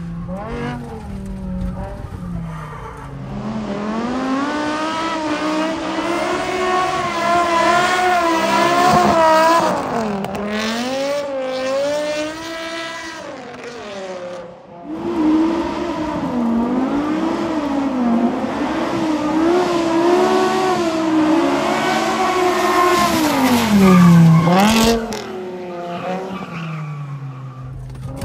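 BMW M5 E60's V10 engine revving hard while the car is drifted, its pitch climbing and falling again and again as the throttle is worked. The engine is newly installed and being driven hard for the first time.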